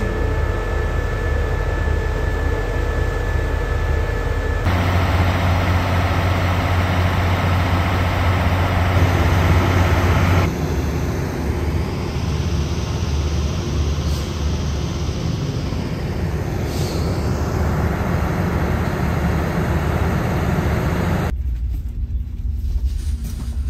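Train running noise heard on board: a steady loud rumble with rail and wheel noise. It changes abruptly several times.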